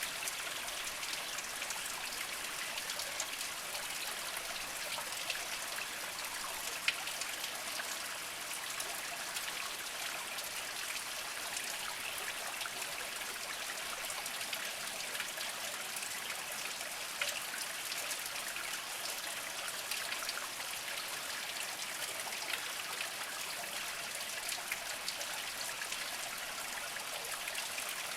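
A small spring trickling and splashing over mossy rocks: a steady bright babble of running water with many small drips and plinks, a few briefly louder than the rest.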